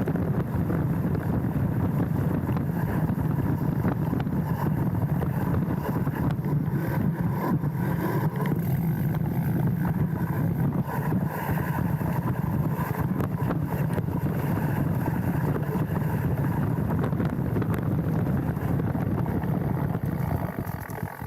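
Wind rushing over the microphone of a handlebar-mounted action camera on a mountain bike riding downhill, with scattered clicks and knocks from the bike rattling over the bumpy trail.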